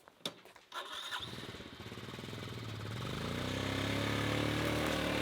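A motorbike engine starts after a few clicks about a second in, rising in pitch and loudness for a couple of seconds, then running steadily.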